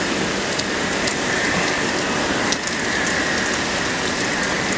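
Heavy hurricane rain pouring steadily, an even hiss with faint scattered drop clicks.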